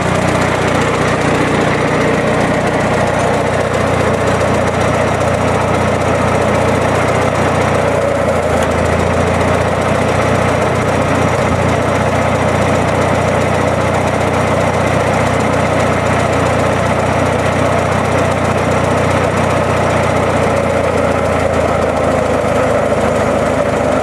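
Old Massey tractor engine running steadily while its boom lifts an engine out of a truck. Its low note shifts a little about a third of the way in and again near the end.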